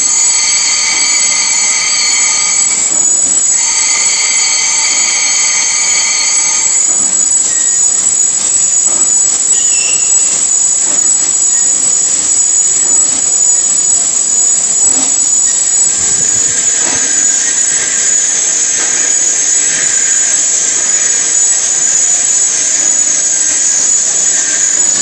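Heavy-duty lathe cutting metal: a high-pitched squeal of the cutting tool on the workpiece holds for the first few seconds, breaks off briefly and returns until about a third of the way through, over a steady high-pitched machining whine that carries on throughout.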